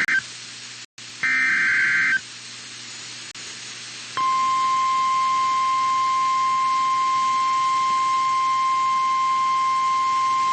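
NOAA Weather Radio alert signal: two short buzzy bursts of the SAME digital warning header, then about four seconds in the steady one-note warning alarm tone comes on and holds, over radio hiss. It announces that a weather warning is about to be read.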